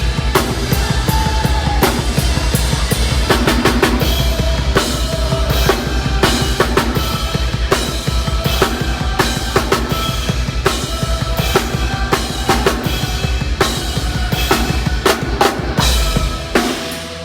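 Live metal band playing loud and dense, with the drum kit's rapid kick and snare hits to the fore. The sound dips briefly near the end.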